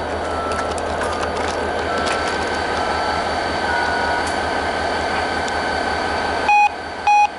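Diesel locomotive idling steadily, with two short, loud electronic beeps from a radio near the end.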